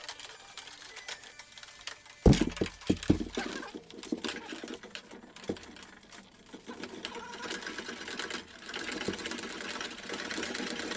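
Fast-forwarded sounds of hands-on work, heard as a rapid, busy clatter of small clicks and rattles, with a few sharp knocks about two seconds in.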